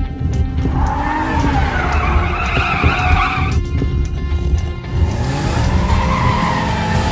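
Cartoon racing-car sound effects over background music: a tyre screech lasting nearly three seconds from about a second in, then a second screech with an engine revving up near the end.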